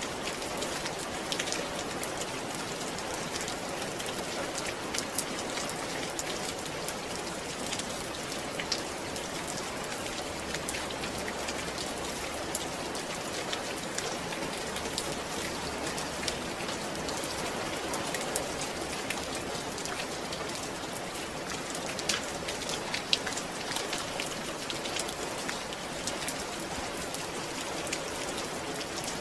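Steady rain falling on a surface, with an even hiss and scattered close drops ticking sharply.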